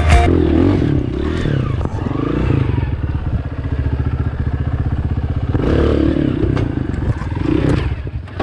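Dirt bike engine running at low revs with a steady, rapid low pulse, the pitch swelling briefly a few times.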